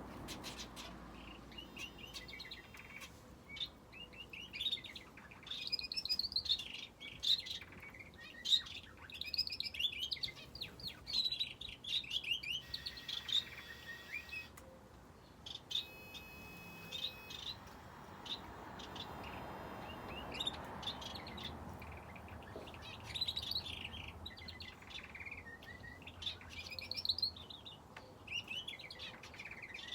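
Small cage birds (finches and a canary) chirping and singing in quick high phrases, on and off, with a lull of a few seconds in the middle.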